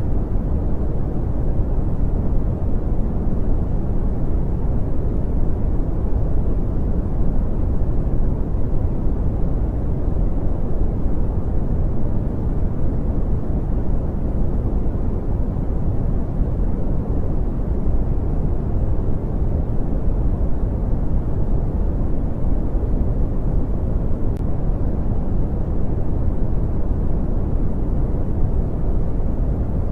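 Continuous brown noise: a steady, deep rushing hiss with its weight in the low end, unchanging throughout.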